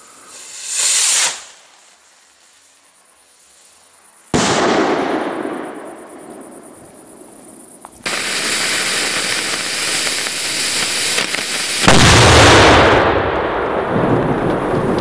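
Fireworks going off. A short hiss near the start, then a sudden burst about four seconds in that dies away over a couple of seconds. From about eight seconds comes a steady, loud rushing hiss, loudest briefly around twelve seconds.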